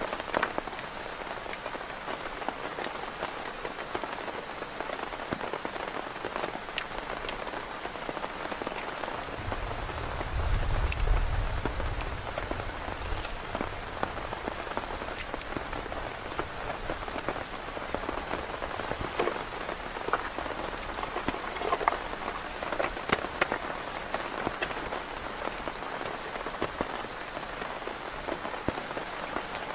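Heavy rain falling steadily, with many scattered sharper drop hits. A low rumble swells about ten seconds in and fades over a few seconds.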